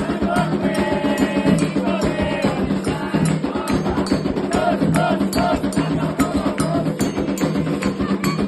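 Candomblé ceremonial music: hand drums and a steady run of sharp percussion strokes, with voices singing a chant over them for the first several seconds.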